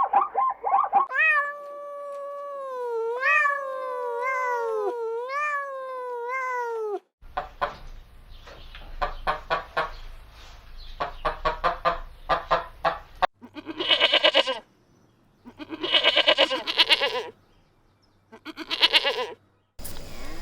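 A cat meowing repeatedly, followed by other farm-animal calls: a run of rapid pulsed calls, then three separate calls of about a second each.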